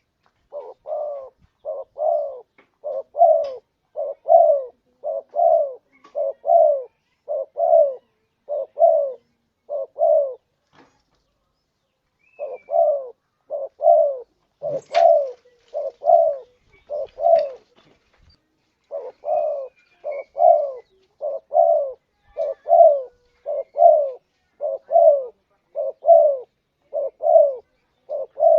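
Spotted dove cooing over and over: a long series of paired low coos, about one pair a second, broken by two short pauses.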